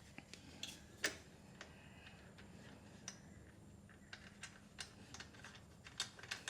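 Faint, irregular small metallic clicks and taps from a wrench and bolt being handled while a motorcycle exhaust mounting bolt is worked loose.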